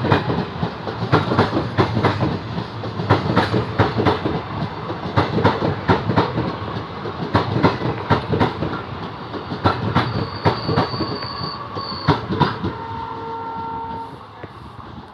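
Indian Railways train passing at speed, its wheels clattering rapidly over the rail joints. A thin high squeal comes in about ten seconds in, and a short horn note sounds near the end as the noise falls away.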